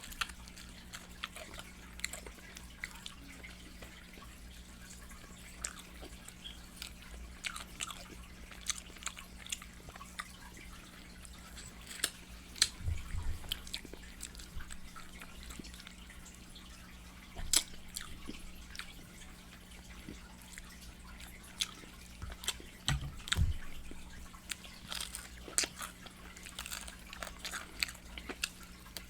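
Close-miked eating of fried chicken: wet chewing and loud lip smacking in many short irregular clicks, with a few dull bumps about 13 and 23 seconds in, over a faint steady hum.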